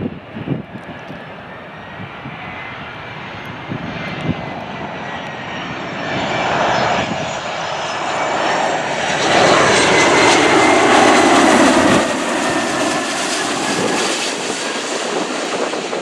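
Jet airliner engines passing low overhead: a rushing roar with a thin high whine that falls slightly in pitch, building to its loudest about two-thirds of the way through and then easing. A few low thumps near the start.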